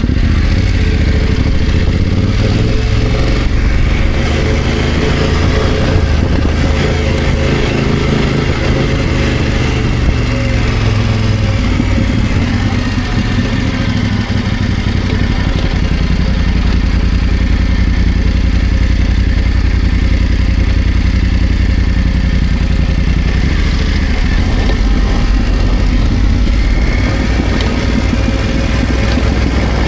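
BMW F900GS motorcycle's 895 cc parallel-twin engine running steadily, its pitch shifting a little around the middle.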